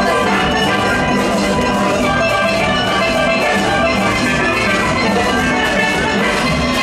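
Steel orchestra playing: many steelpans ringing out a fast, many-noted tune, with drums keeping a steady beat underneath.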